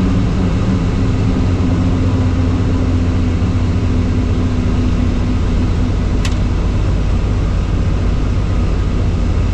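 Helicopter running: a loud, steady drone of rotor and engine, with one brief high click about six seconds in.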